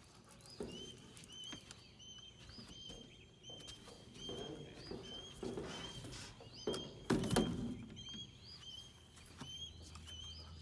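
A bird chirping over and over, short high calls about twice a second, with a brief louder thump about seven seconds in.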